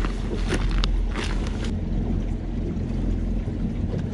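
Boat motor running with a steady low hum over a constant wash of water noise, with a few faint clicks.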